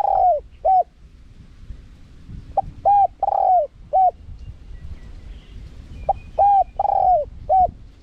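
Spotted dove cooing: a four-note phrase (a short lead note, a coo, a longer coo sliding down in pitch, and a short closing coo), repeated about every three and a half seconds, with the tail of one phrase right at the start and two full phrases after it.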